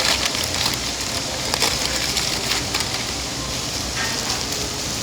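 A person eating close to the microphone: chewing and mouth sounds with many small crackly clicks.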